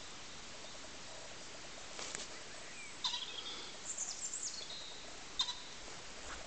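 Outdoor ambience: a steady hiss, with a short run of high bird chirps about three to four and a half seconds in and a couple of faint clicks.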